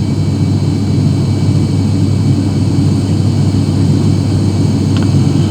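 Steady low drone of an ATR 72's twin turboprop engines and propellers, heard inside the passenger cabin in flight.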